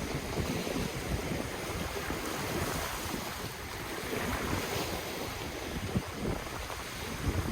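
Ocean waves washing in steadily, with wind buffeting the microphone in irregular low gusts.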